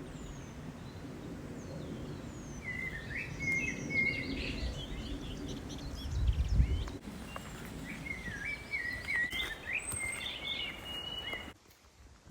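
Small birds singing in quick warbled phrases over a steady low rumbling background, with a brief louder low rumble a little past the middle; the sound cuts off sharply near the end.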